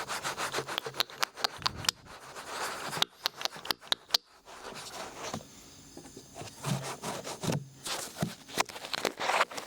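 A large ear pick scratching and scraping in an ear in quick, uneven strokes, close to the microphone, with a quieter pause about halfway through.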